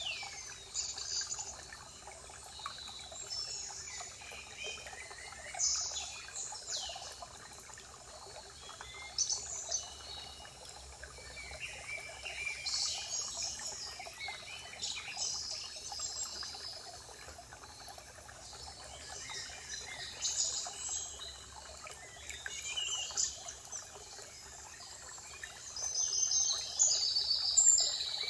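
Spring forest ambience: several birds calling and singing in short chirps and trills, over a steady faint hiss of running water. The birdsong gets busier and louder near the end.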